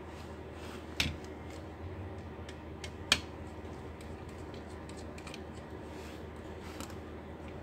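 Small clicks and taps of laptop parts being handled during disassembly, with two sharper clicks about one and three seconds in, over a steady low hum.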